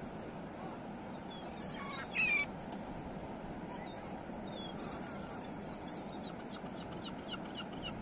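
Birds calling over a steady background rush: one loud call about two seconds in, scattered short high notes, and a quick run of high chirps near the end.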